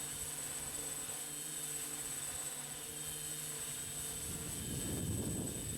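Hexacopter drone's six electric motors and 14-inch propellers humming steadily in a hover. About four seconds in, a gust of wind starts buffeting the microphone with a low rumble that grows louder.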